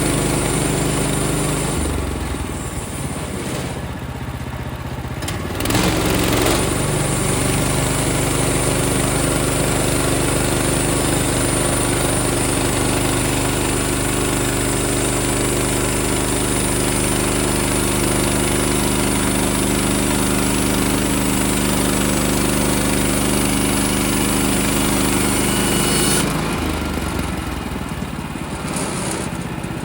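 Portable band sawmill's small gas engine idling, then throttled up at about six seconds and running steadily at full speed for about twenty seconds as the blade makes a pass, then throttled back down near the end.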